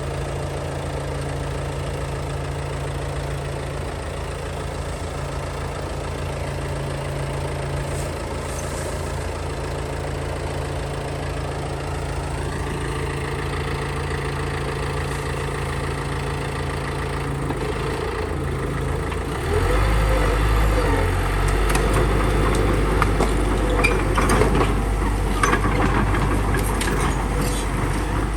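Bulldozer's diesel engine running steadily, then about two-thirds through it drops in pitch and gets louder as it takes on load. Irregular cracks and clicks sound over it near the end.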